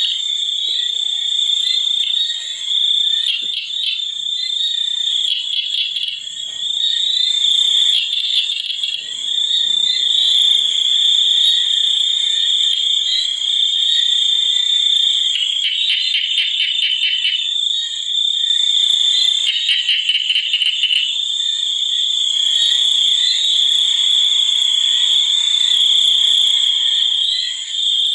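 Chorus of frogs and insects: a steady high-pitched buzz throughout, with bursts of rapid pulsed trilling about 15 seconds in and again about 20 seconds in.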